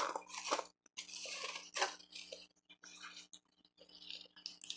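Ice being chewed and crunched close to the microphone, in about four irregular bursts of crunching with short pauses between them.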